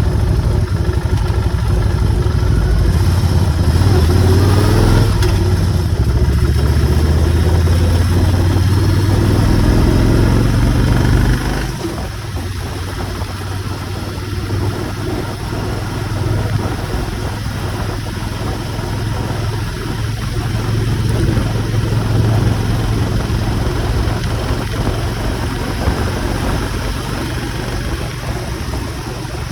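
Motorcycle engine running on the move, its pitch rising around four to five seconds in as it speeds up. About twelve seconds in the sound drops suddenly as the throttle closes, and the engine runs on more quietly.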